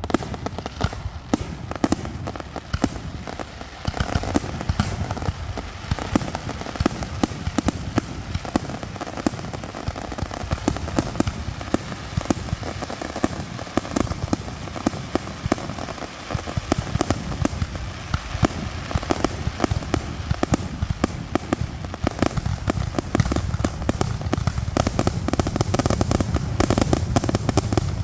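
Fireworks finale: a dense, continuous barrage of rapid bangs from bursting shells, growing louder and heavier in the last few seconds.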